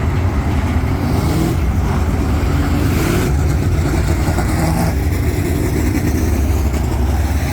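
Dirt-track race trucks running hard around the track in a heat race, a loud, steady engine noise with no break.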